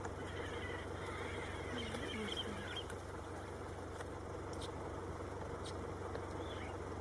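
Steady low hum of idling car engines, with faint bird chirps over it and a brief wavering low sound about two seconds in.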